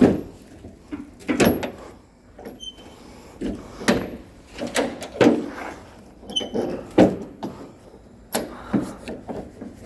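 Split oak firewood being handled, logs knocking and clattering against each other in a run of irregular wooden knocks, one or two a second.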